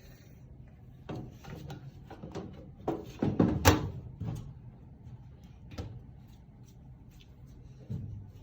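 Knocks and sliding scrapes at a furnace as the filter and its cover are handled: a quick run of knocks, the loudest about three and a half seconds in, then two single knocks later.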